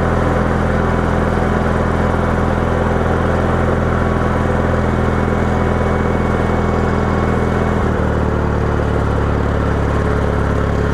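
Garden tractor engine running steadily under load while plowing snow, with the engine note shifting slightly about eight seconds in.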